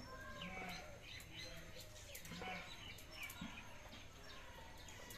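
Small birds chirping faintly: many short, quick high chirps one after another.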